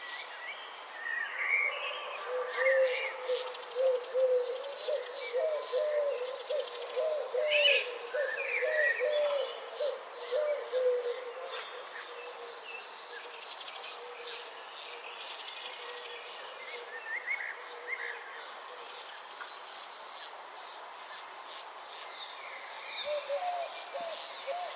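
Nature soundscape: a steady, high insect trill that cuts off abruptly about three-quarters of the way through, with scattered bird chirps and a quick series of low, repeated calls in the first half.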